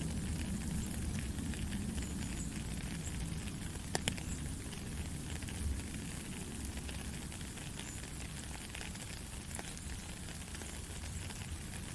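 Heavy rain falling steadily as a dense hiss of drops, with a low rumble underneath. A single sharp tick of a drop striking something comes about four seconds in.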